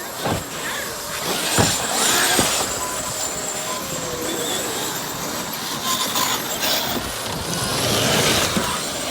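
Large 8S electric RC trucks racing on a dirt track: the brushless motors whine, rising and falling in pitch, over a steady noise of tyres on dirt. There is a sharp knock about a second and a half in.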